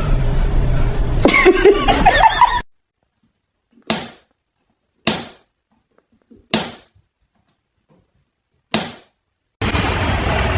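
Room noise with a faint voice, then four separate sharp knocks over silence, each dying away quickly and spaced one to two seconds apart.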